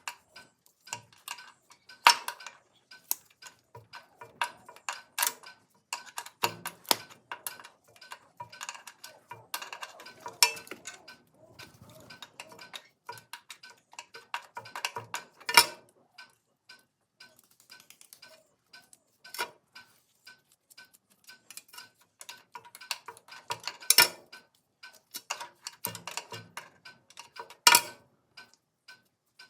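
Metal tools and parts clinking and knocking at irregular intervals, with several sharp clanks standing out, over a faint, evenly spaced ticking.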